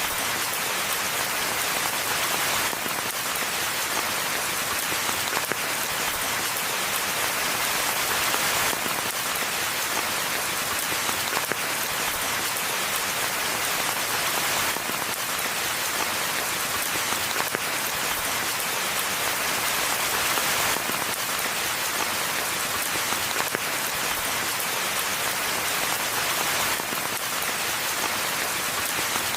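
Steady forest rainfall: an even hiss of rain with a dense patter of individual drops.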